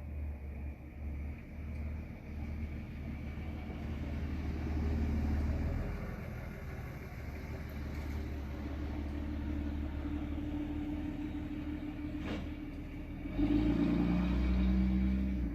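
Motor vehicle engine running with a steady hum, louder for the last two seconds or so, while wind buffets the microphone with a low rumble.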